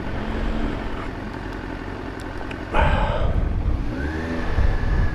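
Yamaha FZ1 motorcycle's inline-four engine running at low speed in traffic, heard from the rider's helmet. There is a short loud burst of noise about three seconds in, and the engine pitch rises and falls briefly a second later.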